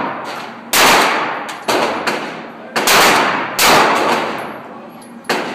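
Five gunshots at irregular intervals, each ringing out with a reverberant decay.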